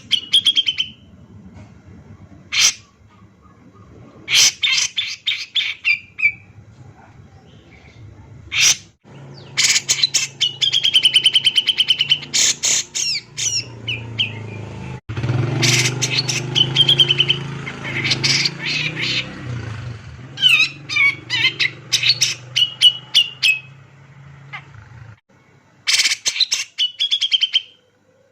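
Grey-cheeked bulbul (cucak jenggot) singing a lure song over and over. Each phrase is a fast stutter of sharp notes that ends in a short held whistle. A low steady hum runs underneath through the middle.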